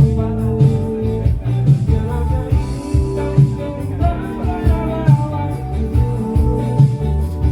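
A band playing music with a steady beat, held melody notes and guitar.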